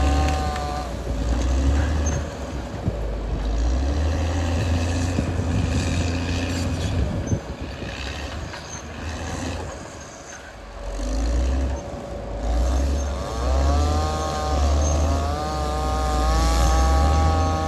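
Caterpillar D6R XL bulldozer's diesel engine working, with a deep pulsing rumble and a whining tone that rises and falls. It eases off for a couple of seconds past the middle, then builds again.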